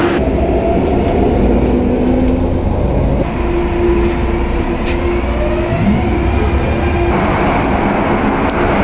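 Hong Kong Airport Express train running, heard from inside the carriage: a steady low rumble with a faint even hum over it.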